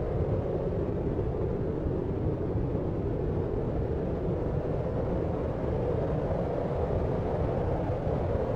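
Steady deep noise for sleep: an even, low rumbling hiss with little high end and no separate events.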